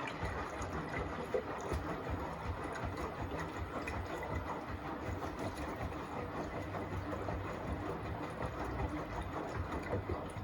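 Beko WTK104121A washing machine's drum turning through a rinse tumble, its motor running steadily with low pulsing as the wash turns in the rinse water.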